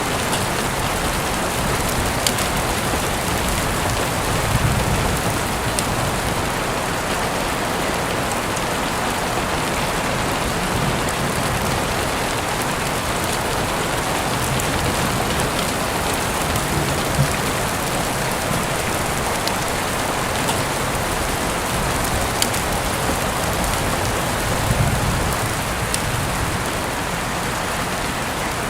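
Heavy rain falling steadily, with scattered sharper drop ticks and a couple of brief low rumbles, about four seconds in and near the end.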